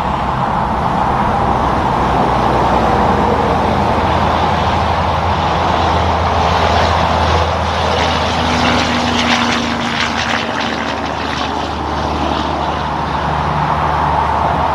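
Heavy diesel truck running steadily with road and traffic noise: a low engine hum under a broad rushing sound, turning rougher and crackly for a few seconds in the middle.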